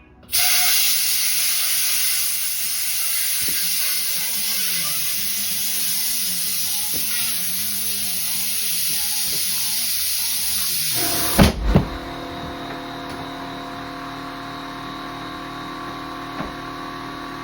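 A loud, steady hiss of rushing gas starts abruptly and runs for about eleven seconds while the tire is being stretched onto the rim. It ends in two heavy thumps, and a steady engine-like hum carries on after them.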